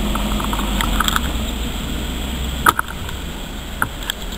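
Low rumble of a distant train fading away, with a sharp click about two and a half seconds in and a few light ticks near the end.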